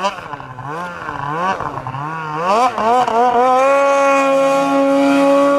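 Snowmobile engine revving up and down in quick swells as the sled is ridden through snow, then climbing and holding steady at high revs for the last couple of seconds.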